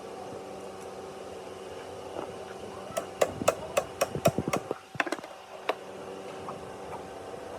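A run of about ten quick hammer blows on metal, about four a second, starting about three seconds in and tailing off with two last strikes. A steady hum runs underneath.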